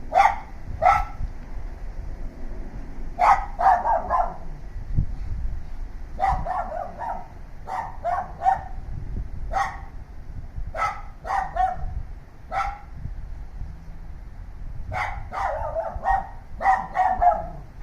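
Neighbour's dogs barking over and over in irregular bouts of one to four sharp barks, with short gaps between bouts.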